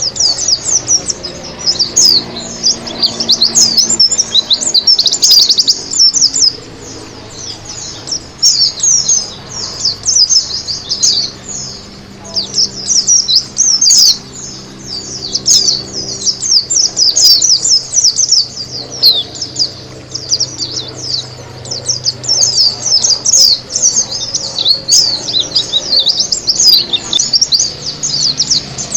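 White-eye (pleci) in full song: a fast, continuous twittering of high, quick chirps, easing off briefly about a third and again about two-thirds of the way through.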